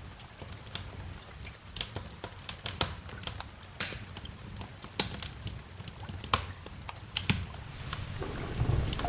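Wood fire crackling in a fireplace: irregular sharp pops and snaps, several a second at times, over a low steady rumble. Near the end a rumble of thunder with rain swells in.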